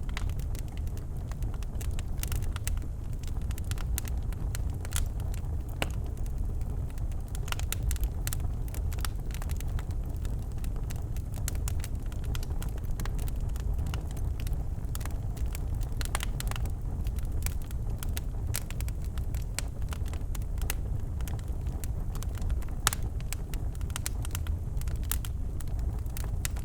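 Birch logs burning in a fireplace: a steady low rumble of the flames with frequent sharp crackles and pops scattered throughout.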